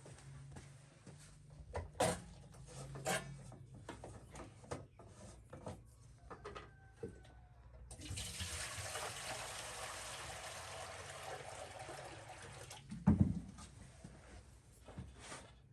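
Water pouring or running steadily for about five seconds in the second half, after a stretch of scattered knocks and clicks. A single thump follows just after the water stops.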